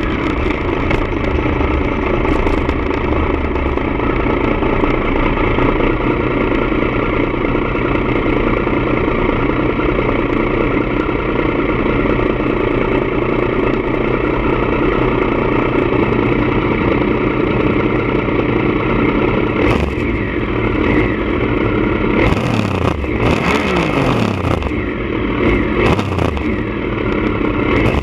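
Triumph Daytona 955i's three-cylinder engine running steadily through a D&D aftermarket exhaust. Near the end there are a few short rushes of noise and a brief dip and rise in engine pitch.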